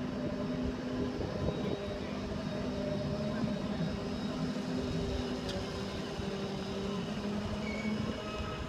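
Wildwood boardwalk tram car running, a steady hum of several low tones.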